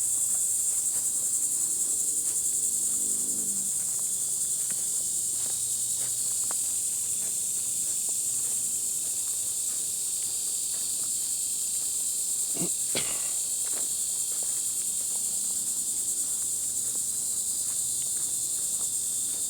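Steady, high-pitched chorus of insects in woodland, with light footfalls ticking on the trail and one sharper snap or knock a little past the middle.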